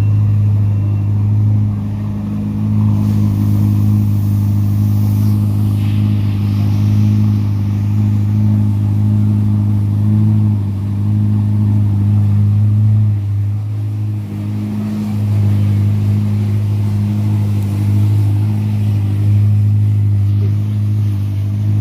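A car engine idling steadily, a deep even hum that holds one pitch with small dips and no revving. From about three seconds in, a hiss like tyres on a wet road rises and fades over a few seconds.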